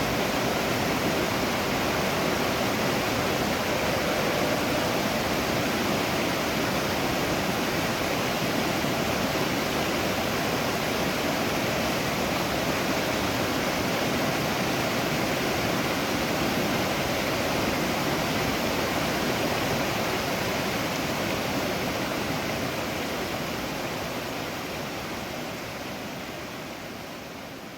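Steady rush of a waterfall, water falling and splashing, which fades out over the last several seconds.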